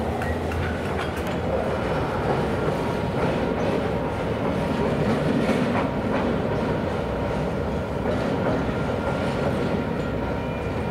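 A train rolling along the track: a steady rumble with light clicks of wheels over the rails and a few faint, thin squealing tones.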